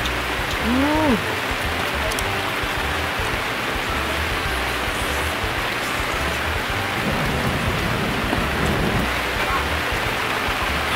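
Steady rain falling, an even hiss throughout. About a second in, a short hummed 'mm' from a woman's voice rises and falls in pitch.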